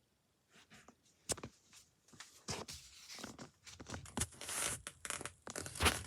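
Close rustling and scraping handling noise with a few sharp knocks, starting after a brief near-silence and growing busier toward the end. No steady machine hum is heard.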